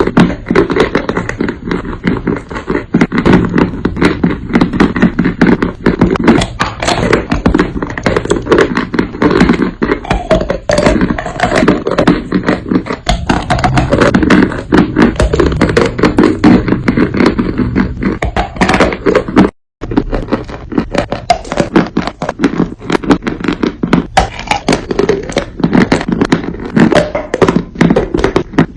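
Dry, powdery crunch clay being crushed and crumbled, a dense run of irregular crunches and crackles. There is a brief cut to silence about two-thirds of the way through.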